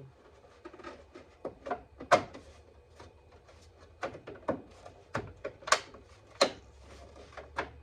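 A string of sharp clicks and knocks, irregular and about a dozen in all, loudest about two seconds in and again near six seconds: plastic car trim or a cover being worked and snapped into place during reassembly.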